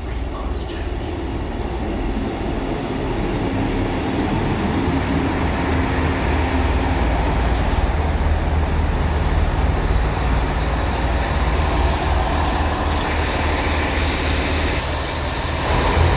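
Northern diesel passenger train coming into the platform, its low engine and wheel rumble building steadily louder. A higher hiss joins near the end.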